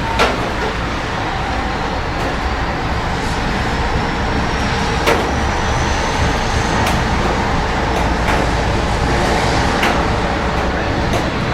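Steady rain with city traffic running underneath, with a few sharp ticks scattered through it. A faint high whine rises slightly for a few seconds in the middle.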